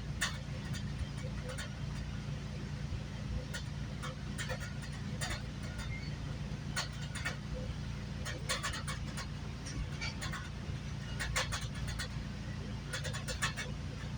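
Steady low rumble of a moving GO Transit commuter train heard from inside a coach, with sharp clicks and rattles coming irregularly, several in quick clusters.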